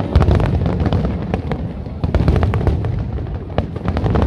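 Fireworks display going off: a rapid run of cracks and pops over a low rumble of booms, with fresh loud volleys at the start and about two seconds in.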